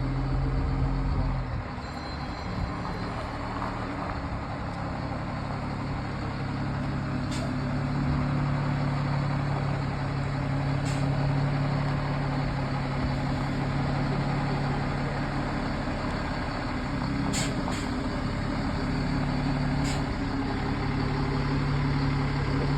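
Heavy truck engine running steadily at low revs, with a few brief sharp clicks or hisses scattered through.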